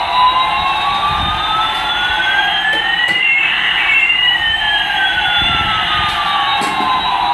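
Electronic siren-like sound effect: two tones glide slowly in opposite directions, one rising while the other falls, crossing about halfway through.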